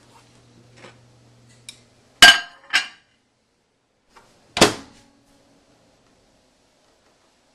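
Microwave oven being handled: three sharp clunks and clinks, two close together about two seconds in and a third a couple of seconds later. A faint hum comes before them, and dead silence follows.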